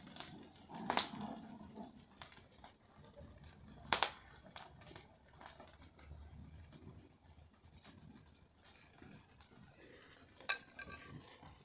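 Scattered sharp clicks and knocks with faint ticking between them; three louder ones come about a second in, about four seconds in and near the end.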